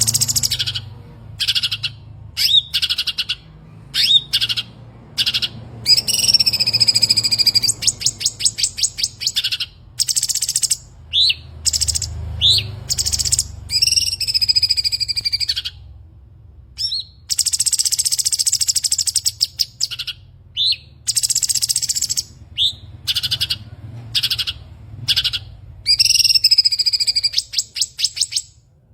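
Cucak cungkok singing in full voice. Short rising whistled notes alternate with long, fast rattling trills and buzzy held phrases, separated by brief pauses.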